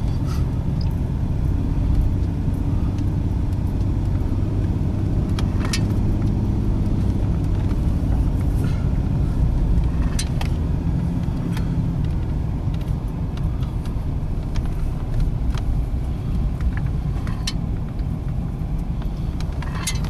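Car driving, heard from inside the cabin: a steady low rumble of engine and tyres, with a few light clicks and rattles.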